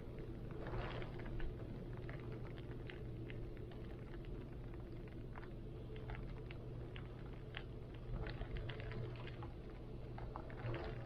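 Heavy wind rumbling steadily with rain falling, individual drops ticking and pattering irregularly over the low roar.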